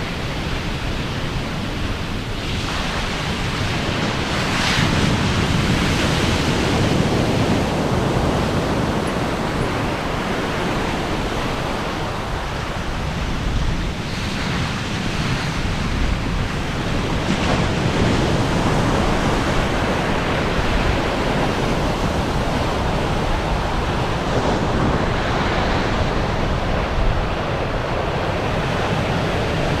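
Ocean waves washing onto a shore, a steady rushing noise that swells as each wave breaks every few seconds, with some wind.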